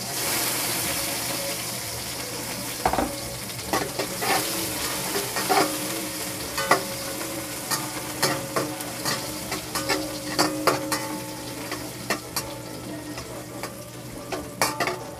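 Onion and garlic sizzling in hot oil in a large wok-style pan, stirred with a long spatula. The sizzle is strongest at the start and then eases, while from about three seconds in the spatula clinks and scrapes against the pan once or twice a second.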